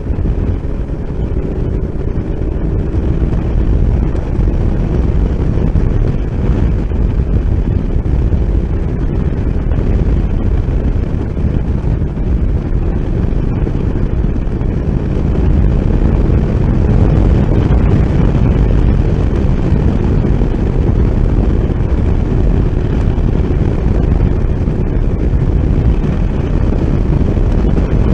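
Motorcycle riding at road speed: steady engine and road noise under heavy wind rushing over the microphone.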